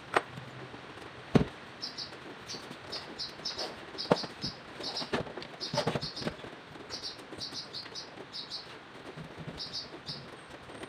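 Sharp clicks and knocks of hand tools and metal parts as the rocker cover is taken off a Stihl BT131 engine, loudest just after the start and about a second and a half in. Birds chirp over and over in the background.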